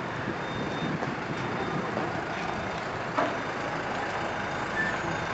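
A vehicle engine running steadily, with a single sharp knock about three seconds in.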